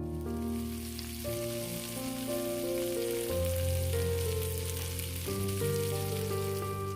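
Food frying in an oiled pan, a steady dense sizzle, with gentle piano music underneath.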